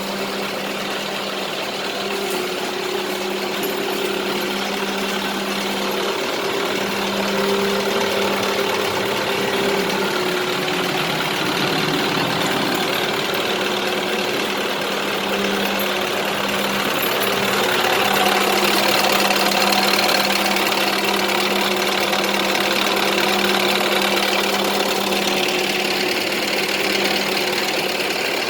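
Scania R500 truck's V8 diesel engine running steadily.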